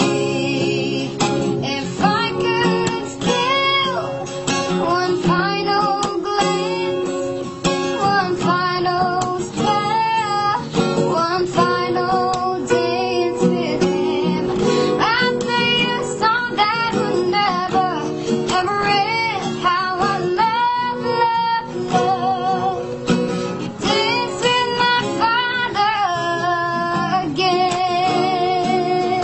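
A child singing a melody to acoustic guitar accompaniment.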